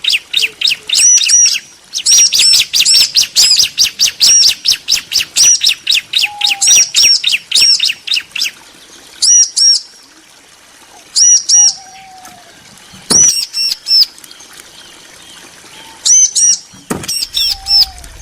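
Bar-winged prinias (ciblek), male and female answering each other, with fast, high, repeated chirping: a dense run of notes for about the first half, then short bursts of two or three chirps with pauses between.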